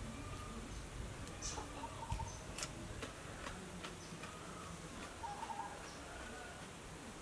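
A bird calling: a short quick trill of a few notes, heard twice, over quiet outdoor background with scattered faint clicks.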